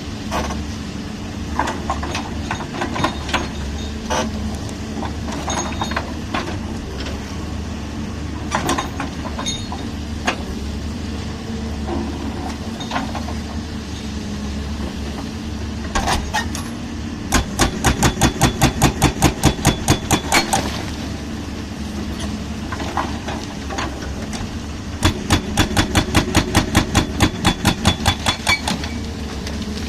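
Excavator diesel engine running steadily, with scattered knocks and two runs of rapid hammering, about eight blows a second for a few seconds each, from a hydraulic breaker pounding concrete.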